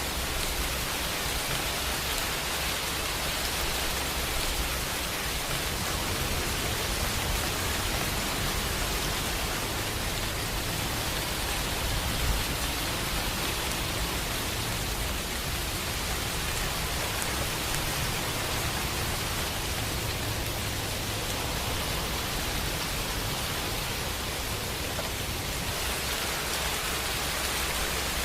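Steady rain falling, an even hiss, with a low rumble of distant thunder swelling and fading through the middle.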